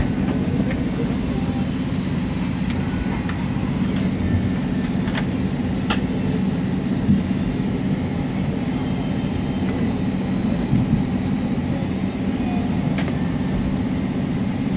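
Steady cabin drone inside an Airbus A320, with a faint high whine above it and a few sharp clicks scattered through.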